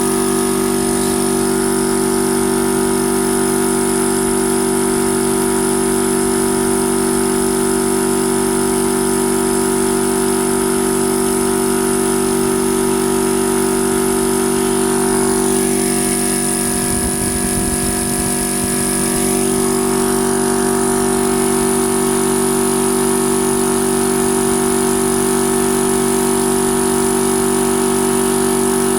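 Hawk Tools 100-litre, 3 HP twin-cylinder V air compressor running steadily as it pumps up its tank, with a brief change in its tone about halfway through.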